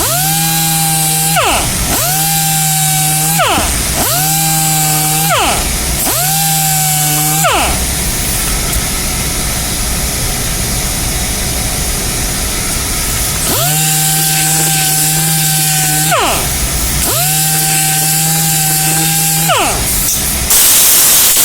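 Electric orbital palm sander running on the edges of a wooden block, with a steady sanding hiss. A pitched motor hum comes and goes in six spells of about two seconds, rising at the start of each and dropping away at the end, with a longer break in the middle.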